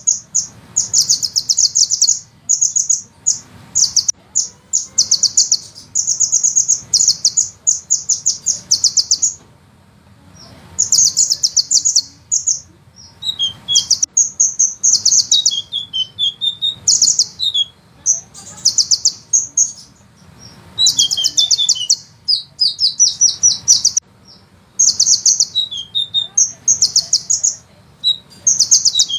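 Sunbird (Indonesian 'kolibri ninja') singing a fast, high rolling trill of rapid notes in bursts of one to two seconds, repeated with short breaks. Some bursts end in a few lower, falling notes.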